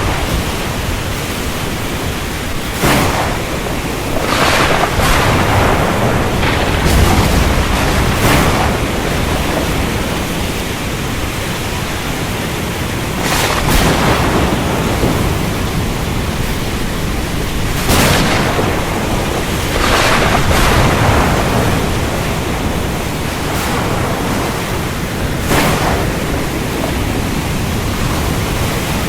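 Steady downpour of rain in a thunderstorm, with a low rumble of thunder and sudden sharp bursts every few seconds.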